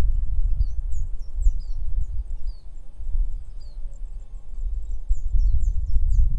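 Wind rumbling and gusting on the microphone, the loudest sound, with small birds giving many quick, high, falling chirps over it.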